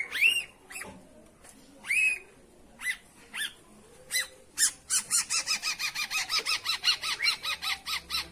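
Long-tailed shrike calling: a few separate, spaced, arched harsh notes, then from about halfway a fast, even run of repeated notes, about five a second.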